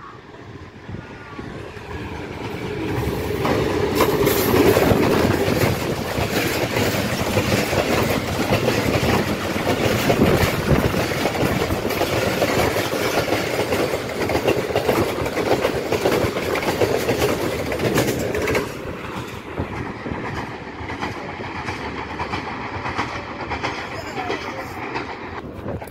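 A diesel-hauled passenger train runs through the station without stopping, close by. The locomotive's sound builds over the first few seconds, then the coaches pass with a steady rush of wheels on rail and rapid clickety-clack over the rail joints. It becomes quieter about three quarters of the way through as the last coaches go by.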